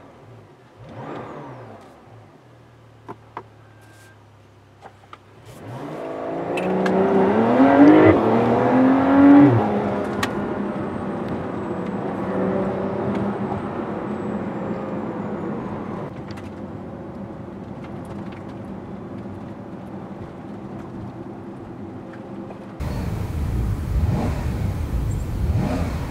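Porsche 911 Targa flat-six on its stock exhaust in normal mode, heard from inside the cabin. After two short swells and a quiet stretch, it accelerates from about six seconds in, its pitch climbing twice with a gear change between. It then settles to a steady cruise. Near the end the sound cuts abruptly to a louder outdoor rumble as the car approaches from down the street.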